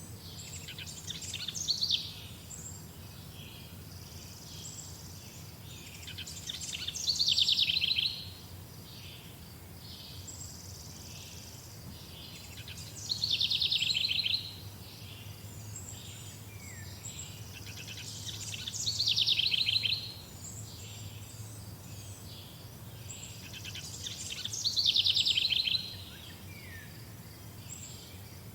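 Songbirds singing: one bird repeats a loud song of about two seconds roughly every six seconds, five times, each a fast trill that falls in pitch. Fainter chirps from other birds fill the gaps over a low steady hum.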